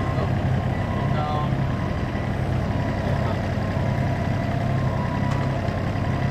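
Backhoe's diesel engine running steadily, a low, even drone with a faint steady whine above it.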